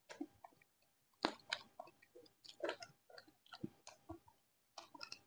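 People chewing and biting into fried chicken pakoda: faint, irregular crunches and mouth clicks.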